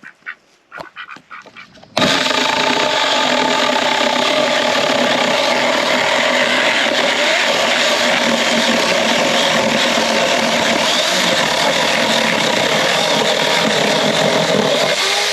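Cordless electric mini chainsaw running at full speed, starting abruptly about two seconds in and holding steady until it stops near the end.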